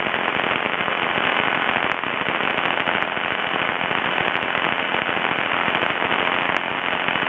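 Heavy, steady crackling static on the light aircraft's radio and intercom audio feed, a dense crackle with no voice over it. It is the sign of a badly crackling radio, which the crew call awful.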